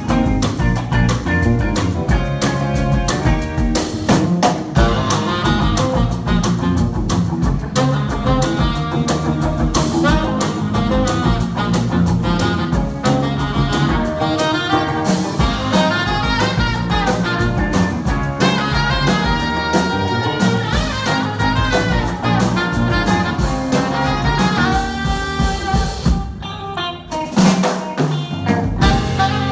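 A band playing live, with a drum kit keeping a steady beat under other instruments; the music briefly thins out near the end.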